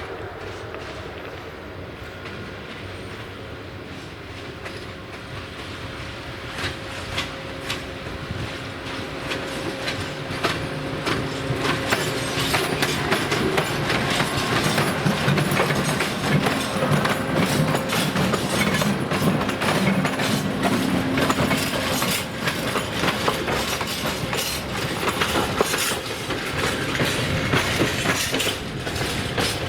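A train approaching and passing on the tracks, its wheels clicking over the rail joints. It grows louder from about six seconds in and stays loud, with a fast run of clicks, for the rest of the time.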